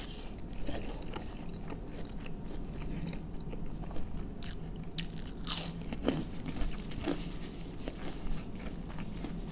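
Biting into and chewing a crispy breaded fried patty, with a handful of sharp crunches scattered among the softer chewing.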